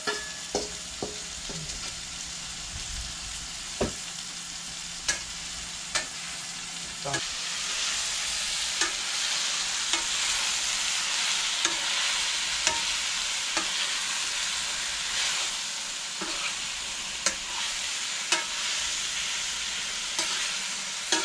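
Sliced bitter melon frying and sizzling in a frying pan, stirred with a spatula that scrapes and knocks against the pan about once a second. Food is tipped in from a steel bowl at the start, and the sizzle grows louder about seven seconds in.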